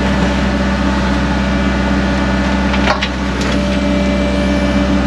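Caterpillar 307.5 mini excavator running steadily under digging work, with a sharp scrape or knock about three seconds in and another half a second later.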